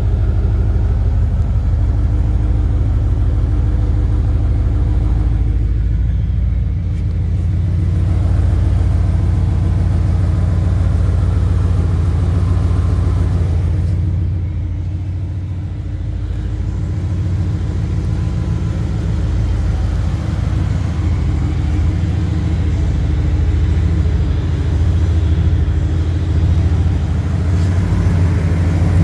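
Turbocharged 4.6-litre V8 of a 2006 Ford Mustang Saleen S281 running steadily with a deep, low exhaust note. It eases off briefly about six seconds in and again about fourteen seconds in.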